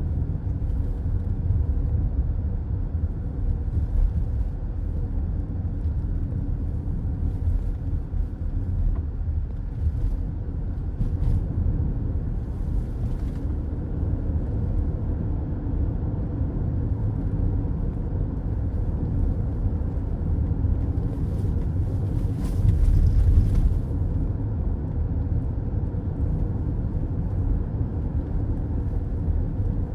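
Steady road noise of a car cruising on a highway, heard inside the cabin: a low rumble of tyres and engine. It swells briefly louder about three-quarters of the way through.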